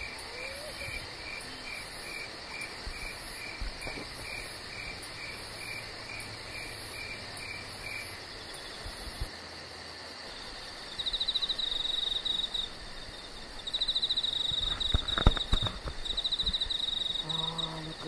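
Insects chirping: a steady run of short high chirps, about two a second, with a fainter, higher pulse about once a second, through the first half; from about two-thirds in a louder high trill in repeated bursts takes over. A brief cluster of clicks comes shortly after it starts.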